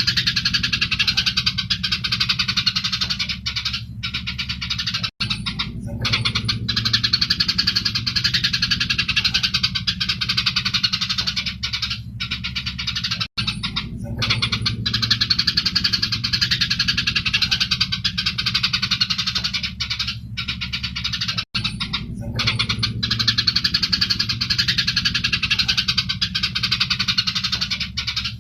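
Eurasian tree sparrows chattering fast and densely, as in a squabble. The chirping is continuous, with a low steady hum beneath and brief breaks about every eight seconds.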